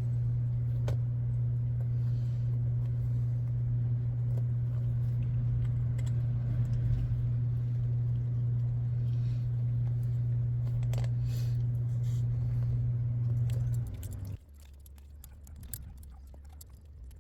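A steady low hum that cuts off abruptly about fourteen seconds in, with light clicks and rattles of small parts being handled throughout.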